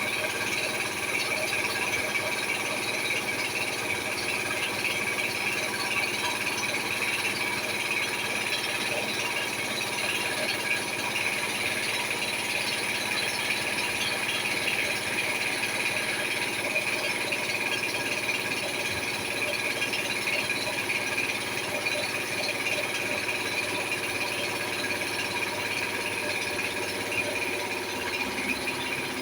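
A machine running steadily, with a constant high whine over an even mechanical hum.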